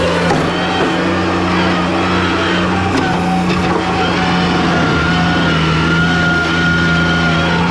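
Skid steer engine running steadily under load, its pitch shifting slightly a few times, with a high steady whine joining in about four and a half seconds in.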